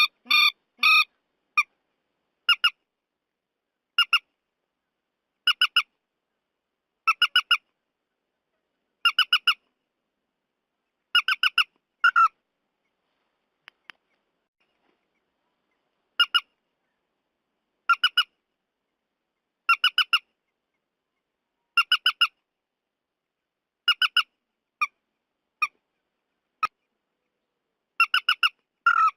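Recorded calls of the trích ré bird, played as a lure: short bursts of three to five quick, sharp notes repeating about every two seconds, with a pause of a few seconds about halfway through.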